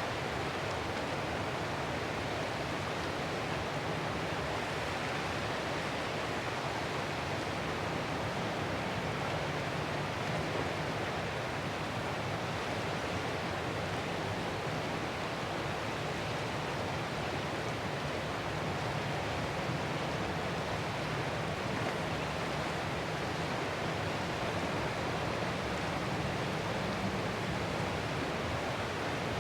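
Ocean surf as a steady, even rushing noise, with no separate wave crashes standing out.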